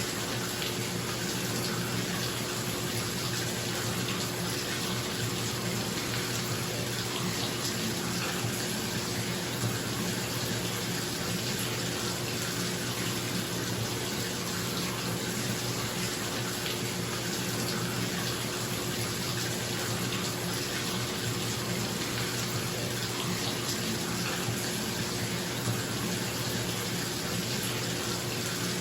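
Bathtub tap running steadily into the tub, a continuous rushing splash of water, with a bathroom exhaust fan's steady low hum underneath.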